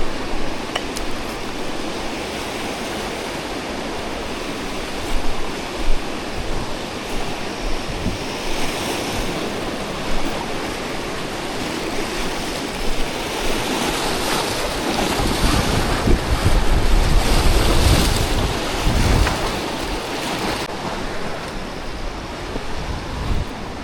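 Rushing whitewater of the Niagara River rapids, a steady wash of water noise, with wind gusting on the microphone for a few seconds past the middle.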